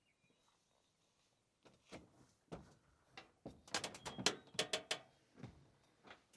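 A series of sharp clicks and knocks, a few spaced ones at first, then a quick cluster about four seconds in.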